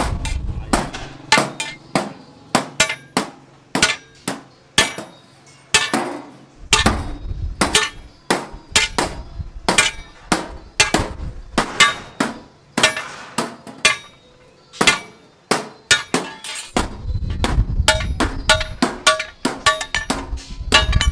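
Hammer striking metal again and again, about two ringing blows a second in an uneven rhythm.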